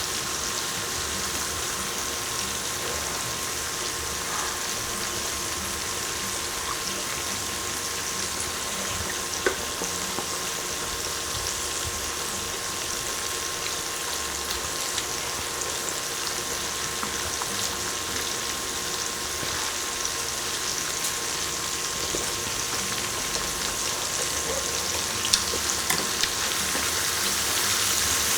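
Food sizzling steadily on an electric grill, with a few sharp spits of fat about nine seconds in and again near the end. A faint steady high tone runs underneath.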